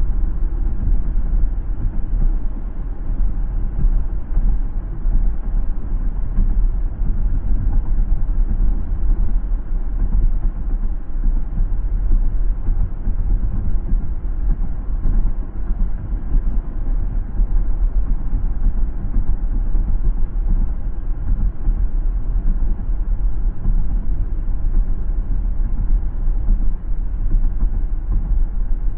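Steady low rumble of a car driving along a road, mostly tyre and road noise with the engine underneath, with no sudden sounds.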